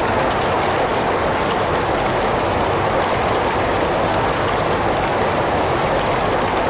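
Heavy rain falling steadily: a dense, even hiss of drops without pause.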